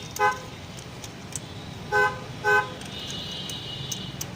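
Vehicle horn tooting in short beeps: one just after the start, then a quick double toot about two seconds in. A steady low hum runs underneath.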